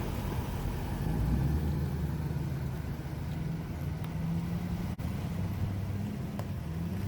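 1944 Case SC tractor's engine running, its low hum shifting pitch a little, with a brief break about five seconds in.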